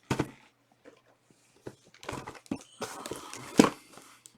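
Trading-card packaging being handled and opened: the plastic wrapper and card boxes rustle and crinkle, with scattered sharp clicks and taps, the sharpest near the end.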